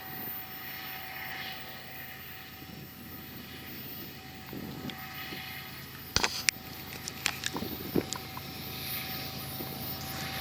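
Steady running noise of a moving vehicle with a constant hum. About six seconds in it is broken by a cluster of sharp clicks and knocks over a couple of seconds.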